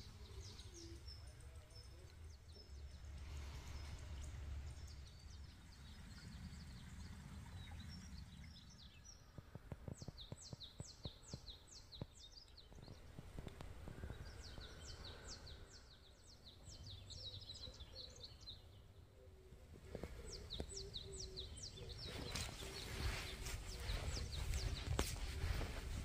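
A bird singing in rapid series of short high chirps, three bursts about ten, fifteen and twenty-one seconds in, over a low rumble.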